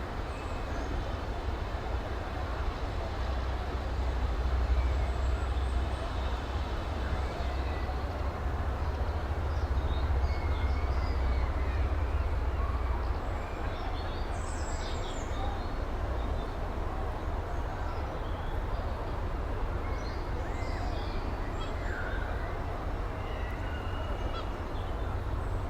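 Steam locomotive running with a steady low rumble that swells for several seconds and then eases back, with a few faint high chirps over it.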